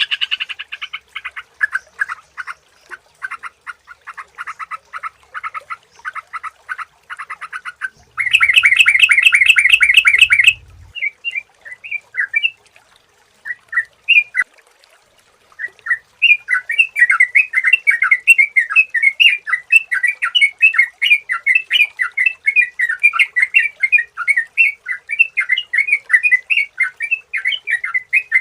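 Yellow-vented bulbul (trucukan) calling in quick runs of chattering notes. A denser, louder burst comes about a third of the way in, then a few scattered notes, then unbroken chattering through the second half.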